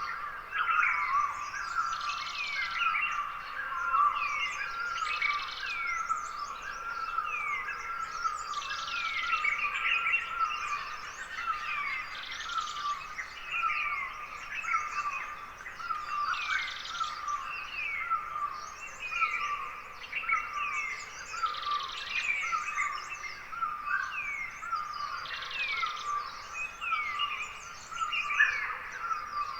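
A chorus of many wild forest birds chirping and calling at dawn, with quick overlapping chirps throughout. A short, higher call recurs about every three to four seconds.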